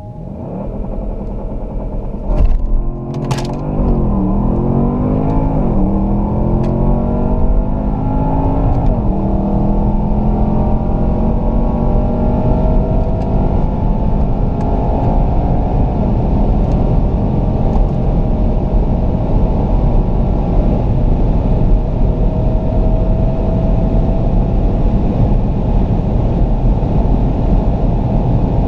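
Twin-turbo V8 sports sedan accelerating flat out from a standstill: engine pitch climbs and drops back at several quick upshifts in the first nine seconds, with two sharp cracks around the early shifts, then rises slowly in the top gears at high speed under heavy road and wind noise.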